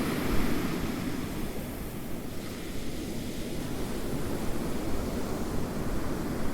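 Ocean waves washing on a shore: a steady, rumbling surf noise that swells slightly near the start, with some wind.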